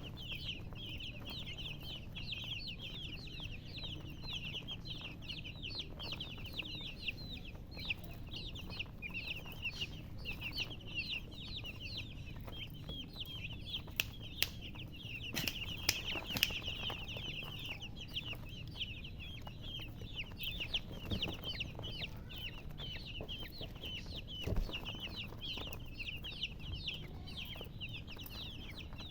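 A group of baby chicks peeping continuously: many short, high, falling peeps overlapping one another. A few sharp clicks come about halfway through and once more near the three-quarter mark.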